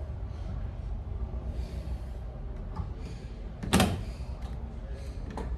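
Plastic parts of a Mabe twin-tub washing machine's spin side being handled as its spin-tub cover is fitted, with one sharp plastic knock about four seconds in over a steady low hum.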